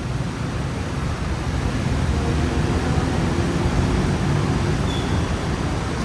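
Steady city road traffic noise: a continuous rumble of passing vehicles with a haze of road and tyre noise.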